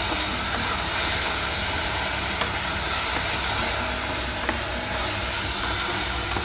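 Shrimp sautéing with garlic, onion and tomato in a pot, a steady sizzling hiss, with a wooden spatula stirring through it.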